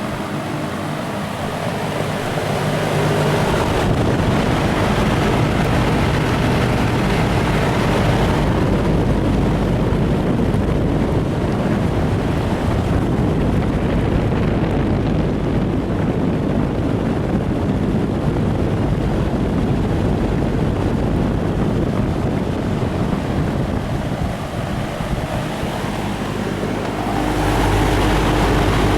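1971 Electrohome 652-1-C 20-inch box fan running on high, its airflow buffeting the microphone as a loud, rough wind rumble through most of the stretch. A steady motor hum comes through more clearly near the start and again near the end, when the buffeting drops away.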